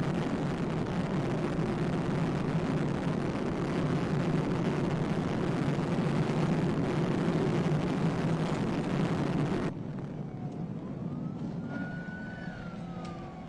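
Police patrol car driving at very high speed in pursuit, with steady wind, road and engine noise inside the cabin. About ten seconds in, the noise drops abruptly to a quieter engine hum, and a faint siren tone rises and falls near the end.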